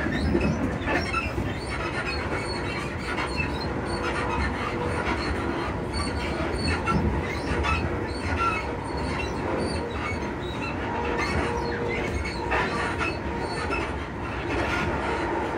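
Cabin running noise of a Class 334 electric multiple unit: a steady rumble full of frequent short creaks, knocks and rattles from the suspension and bodywork, with faint steady tones underneath.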